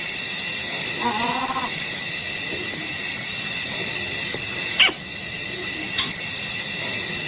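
Wild animal calls over a steady high-pitched drone: a short wavering call about a second in, then two sharp falling cries near the end.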